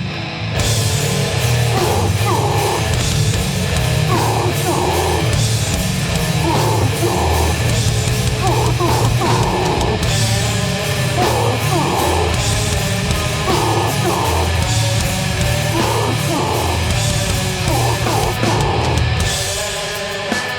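A metallic hardcore band playing live and loud: heavily distorted electric guitars and bass over a pounding drum kit, with a guitar figure that recurs every couple of seconds.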